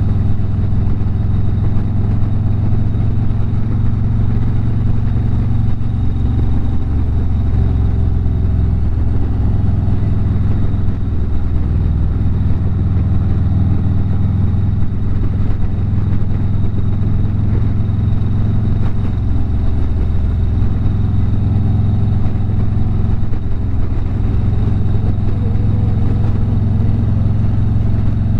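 Harley-Davidson V-twin motorcycle engine running steadily at highway cruising speed, a low, even rumble heard from the rider's own bike.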